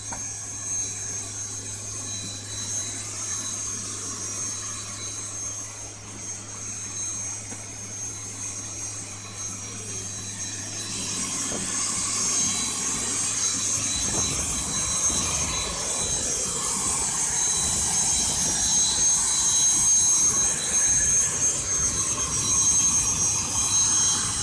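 Air ambulance aeroplane's turbine engines running with a steady high whine over a rushing noise, growing louder; about halfway through a low hum drops out and the engine noise swells.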